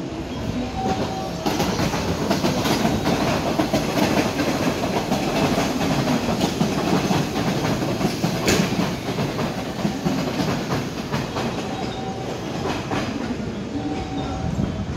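Electric train running past, its wheels clattering over rail joints. The noise swells about a second and a half in and eases off near the end.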